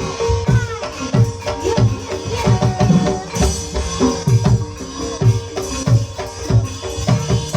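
Javanese ebeg (kuda kepang) accompaniment music: kendang hand drums beating a steady rhythm of several low strokes a second, each stroke dropping in pitch, over sustained ringing gamelan tones.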